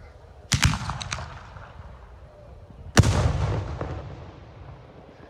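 Portuguese festival rockets (foguetes) bursting overhead. A quick cluster of sharp cracks comes about half a second in, then one heavy bang at about three seconds that echoes and dies away slowly.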